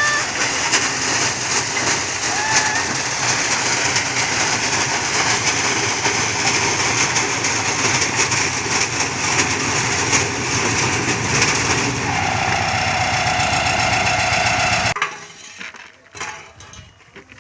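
Engine-driven corn thresher running at full speed with a steady, loud mechanical clatter and rush. The noise stops abruptly about fifteen seconds in, leaving only faint scattered sounds.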